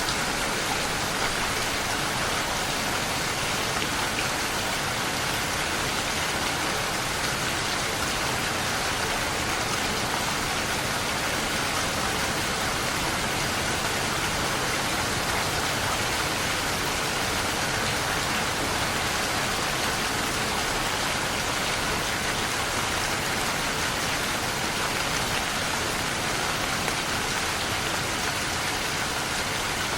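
Steady rain falling and pattering on surfaces, an even, dense hiss with no change in strength.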